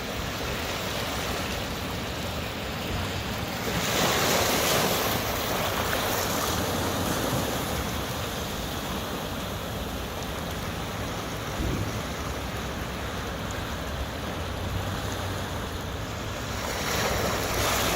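Ocean waves washing against a rocky shore, with wind buffeting the microphone. The surf swells louder about four seconds in and again near the end.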